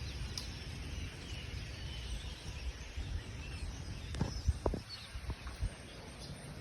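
Faint bird chirps over a steady low rumble of outdoor noise, with a few short knocks about four to six seconds in.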